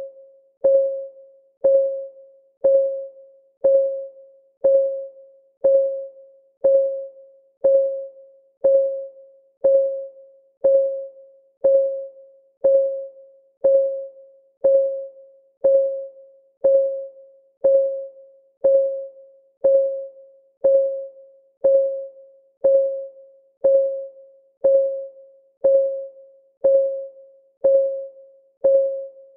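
Countdown timer's clock-tick sound: a short, pitched tick that rings briefly and fades, repeating steadily once a second.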